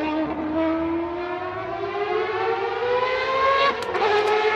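Racing engine accelerating hard, its pitch climbing steadily, then dropping sharply with a quick upshift near the end and starting to climb again.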